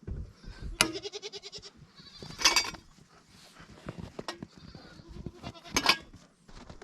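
A goat bleats once about a second in, a wavering call lasting about a second, followed by two short, louder noisy bursts about 2.5 s and 6 s in, amid light knocks and rustling.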